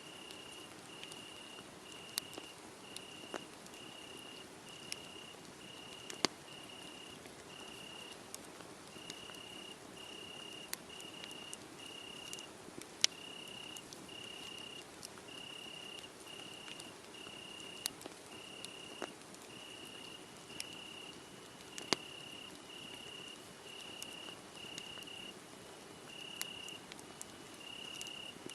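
A cricket chirping in a steady, even rhythm, a little under two chirps a second, over a wood fire crackling with scattered sharp pops; a few louder pops stand out above the chirping.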